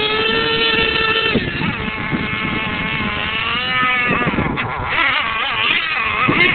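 Radio-controlled monster truck motor running, with a high steady whine that drops about a second and a half in, climbs again around the middle, then wavers up and down with the throttle.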